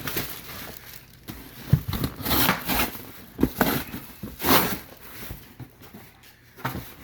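Cardboard shipping box being peeled open by hand: irregular rustling, scraping and crinkling of cardboard and packaging, with a few sharper louder moments.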